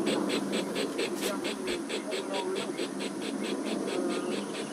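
Model steam locomotive's sound decoder chuffing in a steady rhythm of about six chuffs a second as the engine runs, over the hum of the model running on the track.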